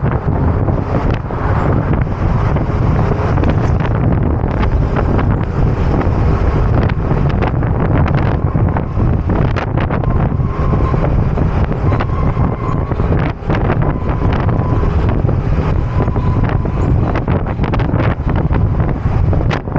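Heavy wind noise buffeting the microphone of a motor scooter riding at speed, a loud, steady low rumble with traffic and road noise mixed in beneath.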